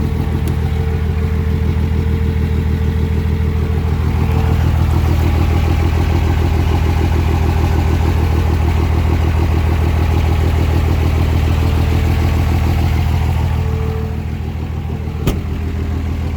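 5.9-litre Cummins inline-six turbodiesel with compound turbos idling steadily with an even low rumble. It gets a little louder about four seconds in and eases back near the end, with a single sharp click shortly before the end.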